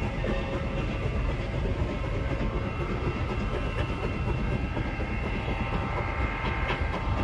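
Train behind Sierra Railway No. 28, a 2-8-0 steam locomotive, rolling slowly by. A steady low rumble of wheels on rails with clicks over the rail joints and some steady high tones above it.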